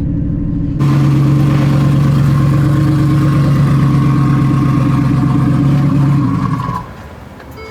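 Drag race launch and full-throttle pass: engines idle at the line, then the sound jumps abruptly to a loud, steady full-power run that lasts about five and a half seconds before falling away near the end.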